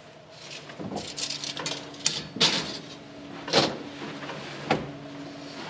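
A few separate knocks and scrapes of wood pieces and tools being handled while framing a wooden shelf, with a faint steady low hum underneath.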